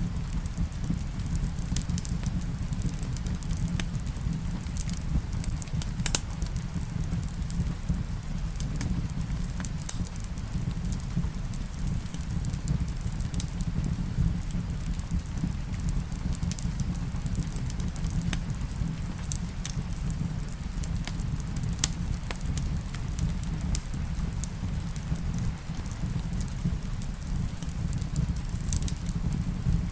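Wood fire in a fireplace crackling, with scattered sharp pops over a steady low rumble, and rain hissing steadily behind it.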